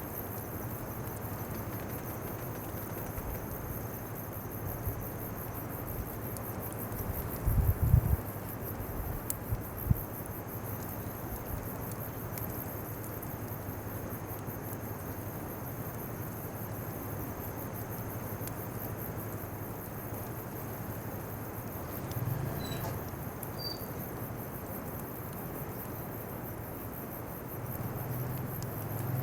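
Insects chirring steadily in a constant high buzz, with a few low thumps about eight seconds in and once more near ten seconds.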